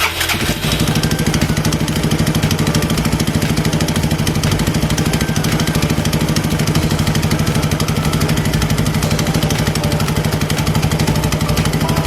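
Yamaha Maxster XQ125 scooter's 125 cc single-cylinder four-stroke engine idling steadily, with an even, rapid beat that holds without revving.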